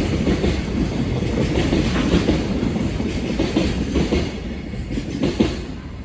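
Container freight train wagons rolling past, wheels clacking over rail joints over a steady rumble. A couple of sharper clacks come about five seconds in, then the sound fades as the train moves away.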